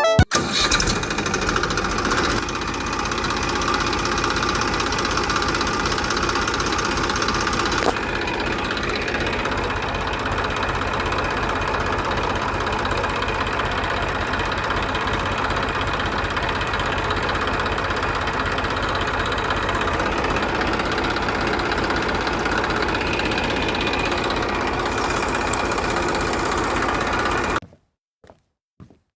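Small motor running steadily with a fast rattling hum, then cutting off suddenly near the end, followed by a few faint knocks.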